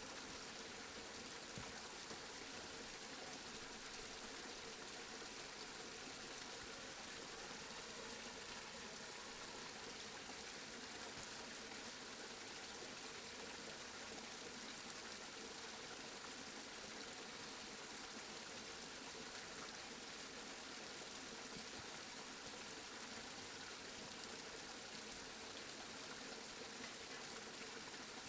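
Steady rain falling, an even hiss of drops without thunder.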